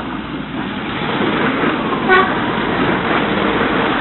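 Diesel multiple-unit commuter train passing close by, its running noise on the rails growing louder, with one short horn toot about two seconds in.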